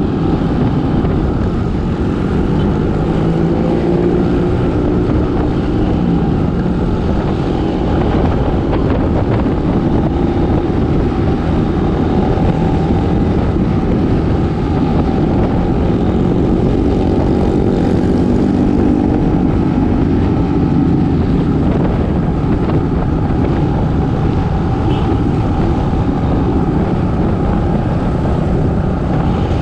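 Road traffic thick with small motorbikes: several engines running and revving up and down over a steady rumble of road noise.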